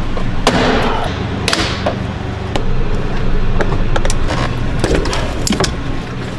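Machinery running with a steady low hum, with scattered knocks and short clattering noises over it.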